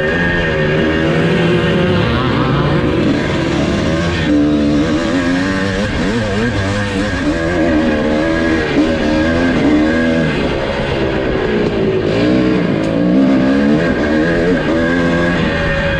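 1982 Husqvarna 430's single-cylinder two-stroke engine being ridden hard on a motocross track, revving up and falling off again and again as the throttle is opened and shut through the corners and straights.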